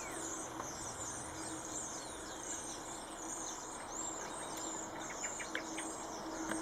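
Many birds chirping and twittering at once, a steady stream of short, very high-pitched calls over background noise.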